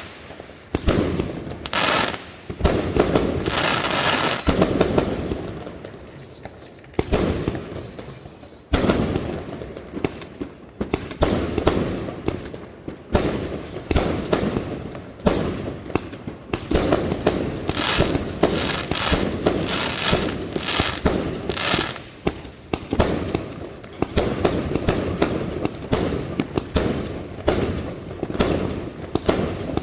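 Fireworks going off in a dense, irregular barrage of bangs and crackles. Between about three and nine seconds in, a high warbling whistle from whistling fireworks sounds over the bangs.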